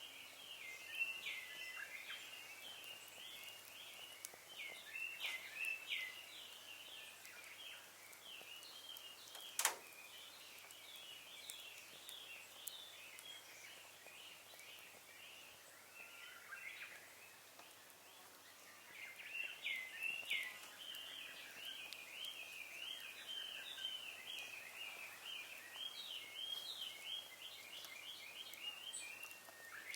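Birds chirping in a dense, quick chorus that thins out for a few seconds around the middle. A single sharp pop from the burning wood fire about ten seconds in is the loudest sound, with a few fainter snaps earlier.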